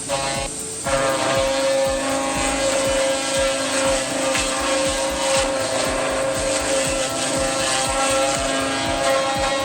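A machine running with a steady, high-pitched whine that starts about a second in, with rapid clicks throughout.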